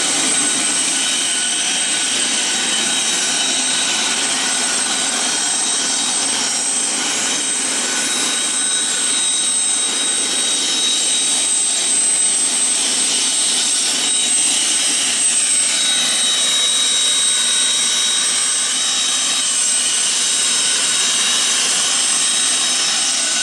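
Hawker 800 business jet's turbofan engines running steadily, heard inside the cabin: an even rushing noise with a steady high-pitched whine.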